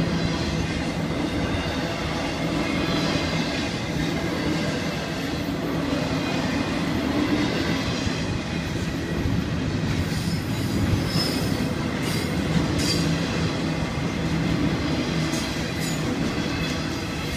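Florida East Coast intermodal freight cars rolling past a grade crossing, a steady rumble and clatter of wheels on the rails. From about ten seconds in, brief high wheel squeals and sharp clicks ride over the rumble.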